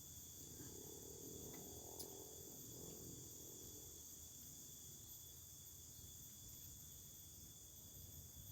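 Faint, steady chorus of forest insects such as crickets, holding several high continuous tones. A soft rustle runs through the first few seconds, with a single click about two seconds in.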